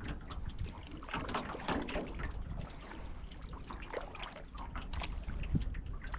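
Canoe paddling: water splashing and trickling off the paddle, with irregular strokes.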